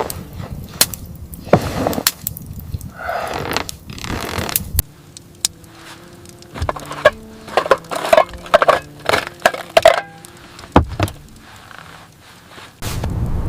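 Irregular knocks, clinks and cracks of things being handled and struck, with a sudden drop in the background noise about five seconds in and a faint run of steady notes between about six and ten seconds in.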